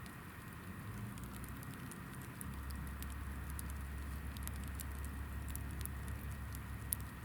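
Hinoki (Japanese cypress) firewood burning in a fire pit, crackling with many small sharp pops, one louder pop near the end. A low hum drops out for the first couple of seconds, then comes back.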